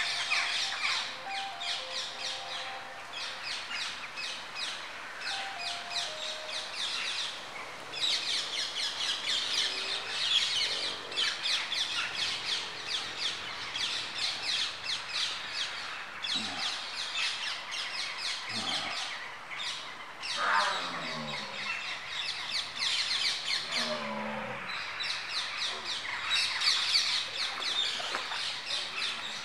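Many birds chirping rapidly and continuously, with a few lower drawn-out calls rising and falling in pitch between about sixteen and twenty-five seconds in.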